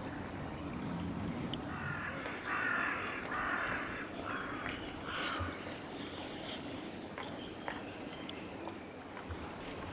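A crow cawing, a quick series of about five harsh caws from about two seconds in to the middle, with short high bird chirps scattered throughout.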